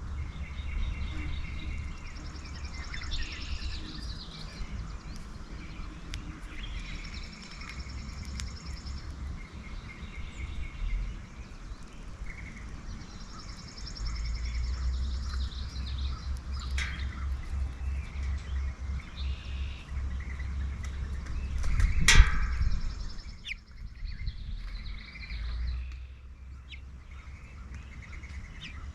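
Several songbirds singing and calling in repeated short phrases and trills, over a steady low rumble. A single sharp knock about three quarters of the way through is the loudest sound.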